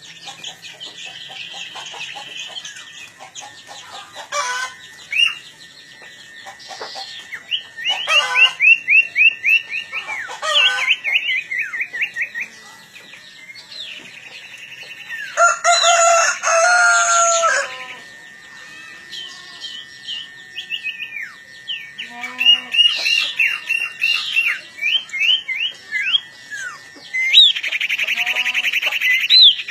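Caged sirtu birds calling at each other while being set up to challenge, in bursts of rapid repeated chattering notes. There is a louder, harsher call lasting about two seconds midway. A thin steady high tone runs underneath.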